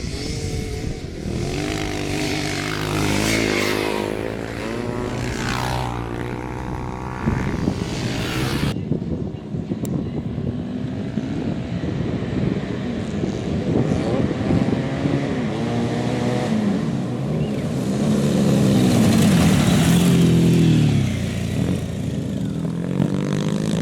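Café racer motorcycles running on a dirt track, engines revving up and falling back again and again as they go past. The sound changes abruptly about nine seconds in, losing its top end.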